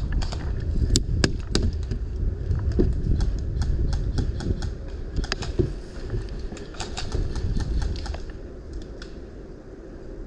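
Footsteps through dry leaves and twigs with gear rattling: irregular clicks and snaps over a low rustle that eases about eight seconds in.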